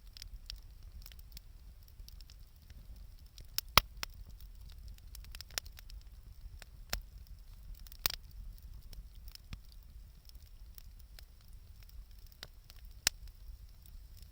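Wood fire crackling with scattered sharp pops, three louder ones about 4, 8 and 13 seconds in, over a steady low rumble.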